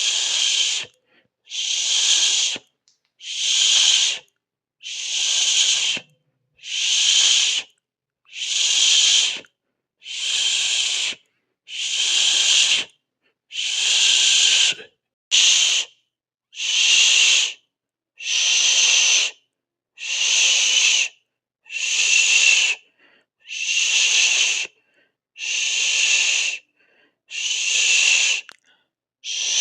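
A person hissing through the teeth, a drawn-out 'sss' about a second long repeated roughly every one and a half seconds, about twenty times, with short breaks between hisses.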